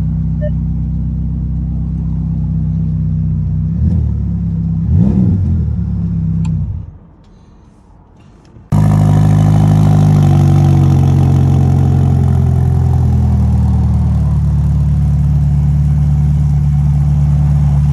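Ferrari Roma twin-turbo V8 idling, given two quick blips of the throttle. The engine then falls quiet for about two seconds. It comes back suddenly at a loud, raised idle that steps down in pitch over the following several seconds as it settles.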